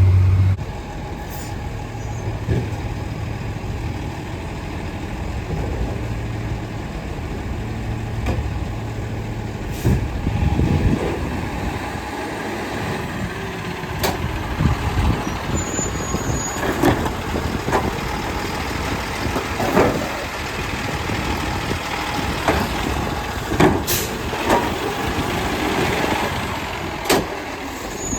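Garbage truck running, its engine drone strongest at first and then easing, with sharp clanks and knocks every few seconds.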